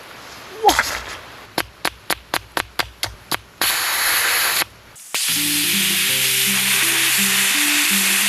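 Pressure cooker being vented: a knock, a quick run of about eight clicks, then loud hissing steam from the release valve, broken by one short pause about five seconds in.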